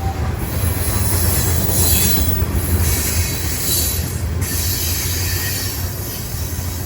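Train rolling past on steel rails, with a steady low rumble and high-pitched wheel squeal that swells and fades.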